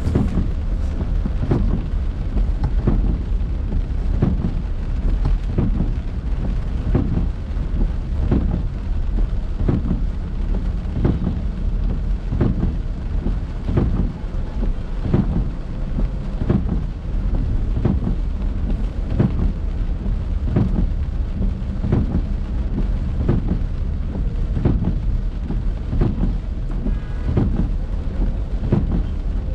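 Rain on a moving car, with a steady low rumble and frequent short knocks throughout.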